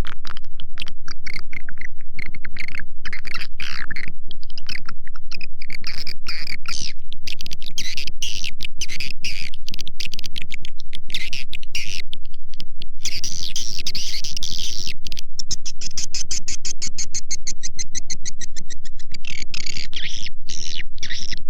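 Swiftlet call track (suara walet) used to lure edible-nest swiftlets into a nest house: dense, rapid twittering chirps, then a fast, even run of high-pitched clicks in the latter half, over a steady low hum.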